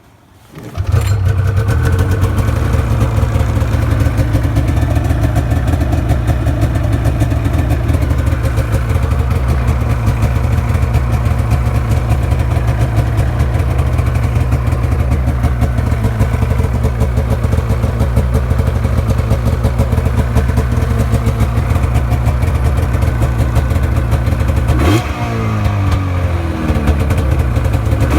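2004 Arctic Cat F7 EFI snowmobile's two-stroke twin engine starting up about a second in and then running steadily. In the last few seconds it is revved several times, its pitch rising with each blip.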